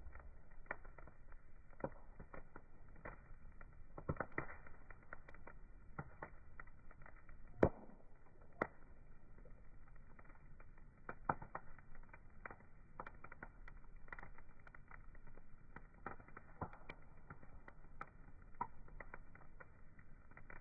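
Wood fire crackling, sounding muffled: irregular small pops and snaps over a soft hiss, with one sharper pop about seven and a half seconds in.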